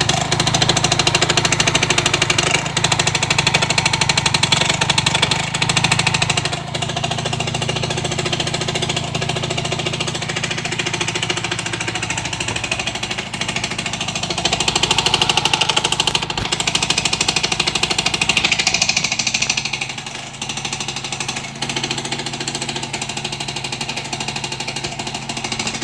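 Engine running with a rapid, steady knocking that repeats many times a second over its hum: the knock the owner is concerned about. The level drops slightly twice, about six seconds in and again near twenty seconds.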